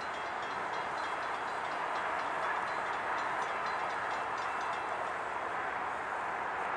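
CSX freight train rolling past: a steady rush of steel wheels on rail, with faint high ticks and squeaks in the first few seconds.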